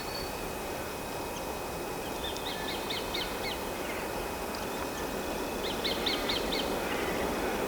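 A bird calling: two short runs of about five quick, high, repeated notes a few seconds apart, over a steady outdoor background hiss.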